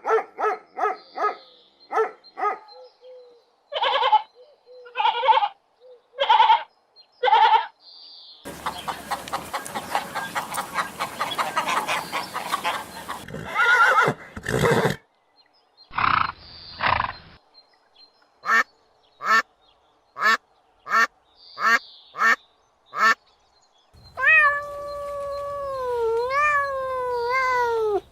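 A run of different farm animal calls, one kind after another every few seconds: short repeated calls at first, a noisier stretch, a run of evenly spaced short calls, and near the end a long wavering bleat.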